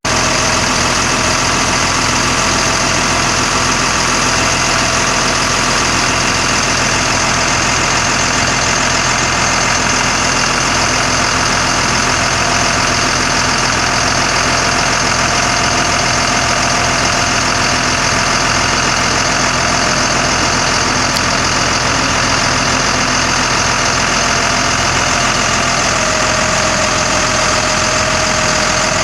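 Caterpillar diesel engine of a 1991 GMC Topkick bucket truck idling steadily, with a faint steady whine over it that dips slightly in pitch a few seconds before the end.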